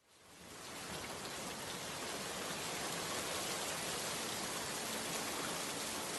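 Steady rainfall, an even hiss of rain on surfaces that fades in over the first second and then holds.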